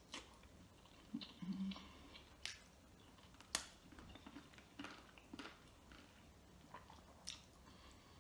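Faint, close-up mouth sounds of someone eating chicken wing meat by hand: chewing with short, sharp lip-smacks and clicks scattered irregularly, the loudest about three and a half seconds in.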